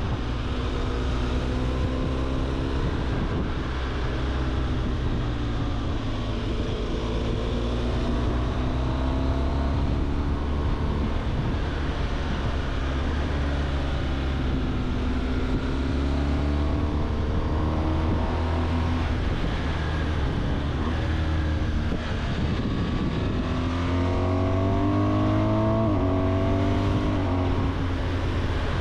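BMW R 1200 GS flat-twin (boxer) engine under way, its revs climbing and falling several times, as through gear changes, with a sudden drop in pitch near the end.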